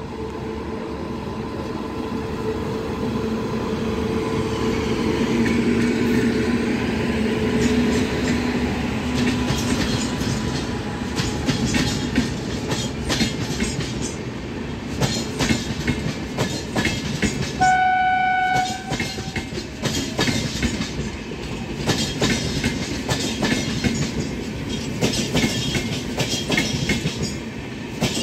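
WAP-7 electric locomotive passing with a steady electrical hum, then passenger coaches rolling by with their wheels clacking rhythmically over the rail joints. About eighteen seconds in, a train horn sounds once for about a second.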